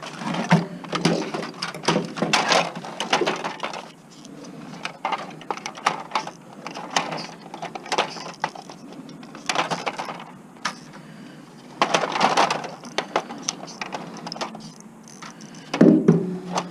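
Hand disassembly of a small electronic appliance for scrap: an irregular run of clicks, rattles and scraping of plastic and metal parts and wires being pulled and handled.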